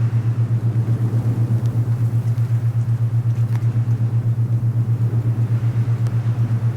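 Alpha binaural beat: a steady low tone pulsing evenly about eight times a second, over a soft, even wind hiss.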